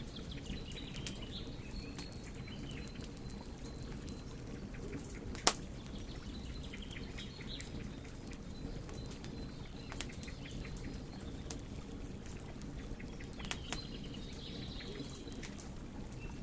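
Wood fire crackling: many small scattered pops over a steady low rumble, with one loud sharp pop about five and a half seconds in. Birds chirp faintly in the background near the start and again near the end.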